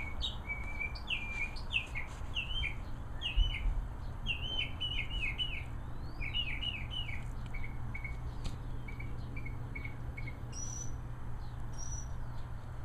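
A songbird singing a long run of quick, short chirps in rapid phrases, thinning out in the last few seconds, over a steady low rumble.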